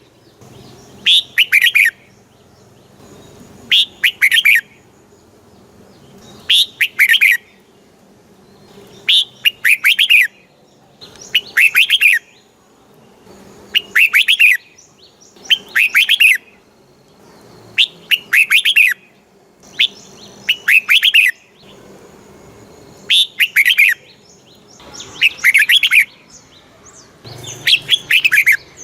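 Red-whiskered bulbul singing: short bright phrases of a few quick notes falling in pitch, repeated every two to three seconds.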